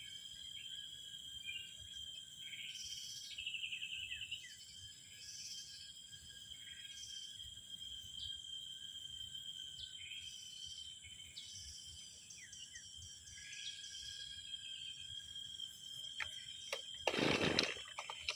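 Outdoor ambience: birds calling in short repeated phrases over a steady high insect drone. Near the end come a few clicks and one brief, loud rasping sound.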